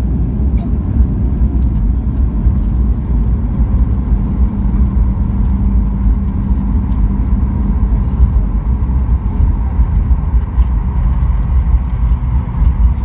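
Steady low rumble of a Boeing 737 MAX 8's CFM LEAP-1B engines and airflow, heard from inside the passenger cabin, with a faint steady whine on top.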